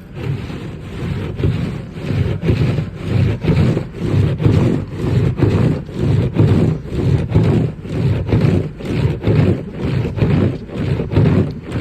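Snow crunching in a steady rhythm, about two strokes a second.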